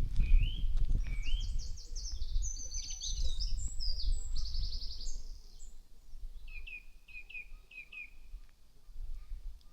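Songbirds singing in a garden: rapid chirps and trills over the first half, then a run of about six short falling notes. A low rumble on the microphone is loudest in the first second.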